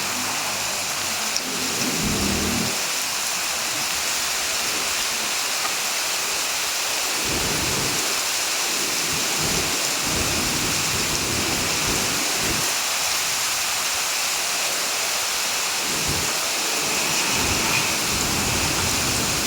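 Heavy rain falling steadily, a dense even hiss, with low rumbles coming and going underneath.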